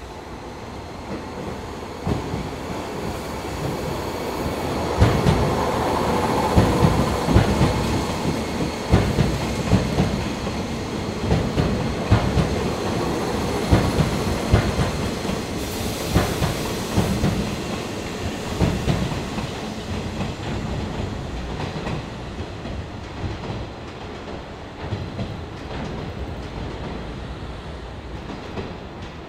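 Nishitetsu 5000-series electric commuter train running past over rail joints and points. Its wheels make a loud, fast clickety-clack that builds and peaks through the middle, with a brief high hiss a little past halfway, then fades as the train pulls away.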